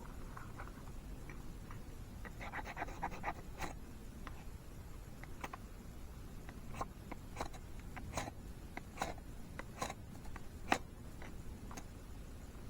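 Irregular small clicks, taps and scratches from objects being handled, with a quick scratchy run about two to three seconds in and one sharper click near the end.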